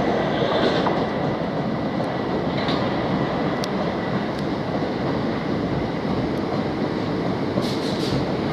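Class 377 Electrostar electric multiple unit running slowly over station pointwork: a steady rumble with wheels clicking over the points and a few brief high squeals, the last pair near the end.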